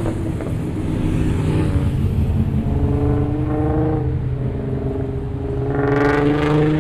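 Car engine running as a car drives by. Its note rises slowly and grows louder about six seconds in.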